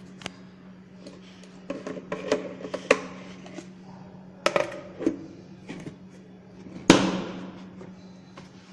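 Scattered knocks and clinks of kitchenware being handled, most likely the microwave-safe bowl and its vented lid, with one louder knock about seven seconds in. A steady low hum runs underneath.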